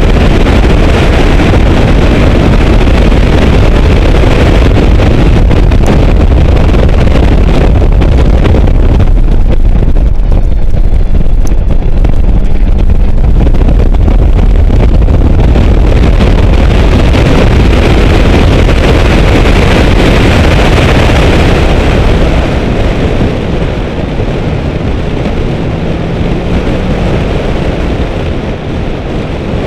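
Car engine running hard at speed on a race track, with heavy wind buffeting on a microphone mounted outside the driver's window. About 22 seconds in the sound eases off as the car slows for a corner.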